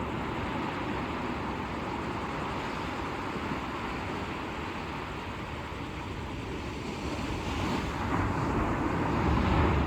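Atlantic Ocean surf washing onto the beach, a steady rushing that swells louder over the last couple of seconds as a wave comes in.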